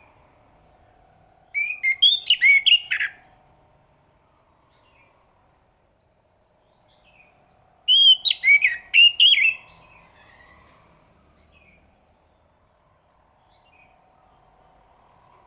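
Chestnut-capped thrush singing: two quick phrases of clear whistled notes, each about a second and a half long, the second coming about six seconds after the first.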